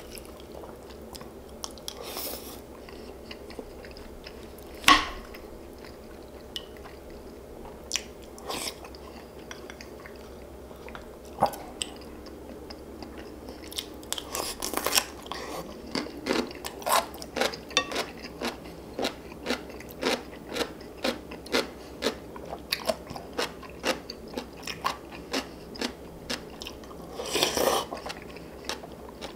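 Close-miked eating: chewing and crunching, with a sharp knock about five seconds in. From about halfway on comes steady rhythmic chewing, about two chews a second.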